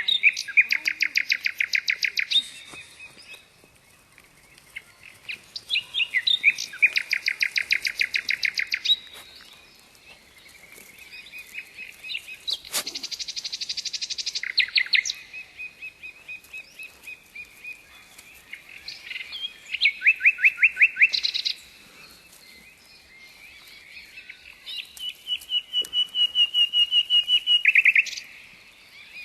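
A songbird singing, about five songs of rapid repeated high notes, each two to three seconds long, with short pauses between them.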